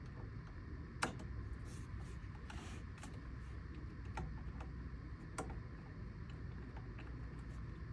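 Scattered light clicks and taps from hands working on the car's steering-wheel parts, the sharpest about a second in, with a couple of brief rustles, over a low steady hum.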